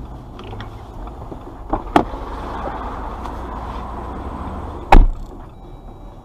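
Steady car cabin rumble, with two sharp knocks about two seconds in and one heavy thump near the end, the loudest sound.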